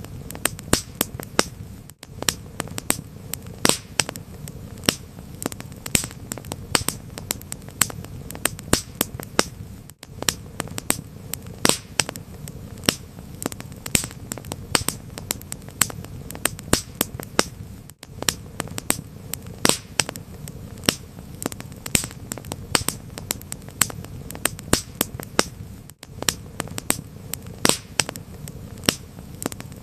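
Wood fire crackling: a steady rumble of burning with irregular sharp pops and snaps, several a second. There is a brief dropout every eight seconds.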